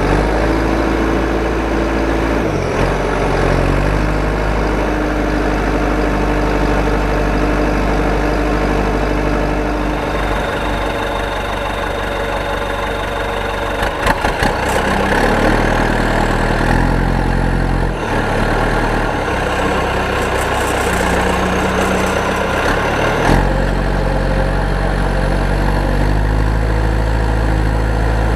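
An engine running steadily, its pitch jumping abruptly several times.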